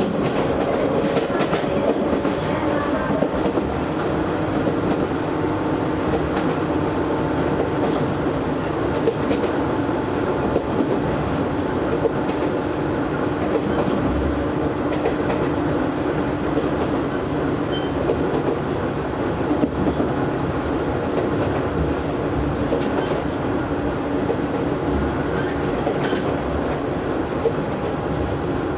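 Izu Hakone Railway Series 3000 resistance-control electric train running between stations, heard inside the car: steady running noise with the wheels clicking over rail joints and a motor whine that fades away about two-thirds through.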